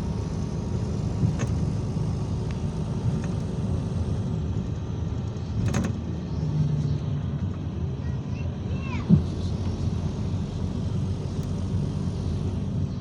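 IVECO Crossway 13M PRO city bus running along, its engine and road rumble steady from inside the passenger cabin. A few rattles and knocks break in, a sharp one about six seconds in and the loudest thump a little after nine seconds, just after a short falling squeal.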